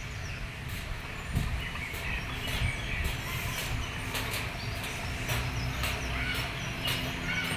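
Small birds chirping in short, sharp calls, many times over, above a low background rumble and a faint steady hum.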